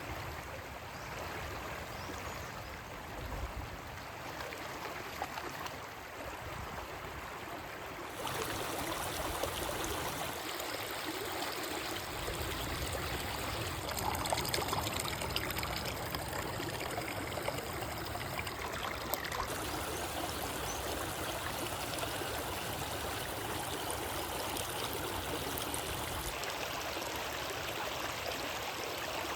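River water flowing steadily with a rushing, trickling sound. Its loudness and tone shift abruptly three times, as if cut between separate takes.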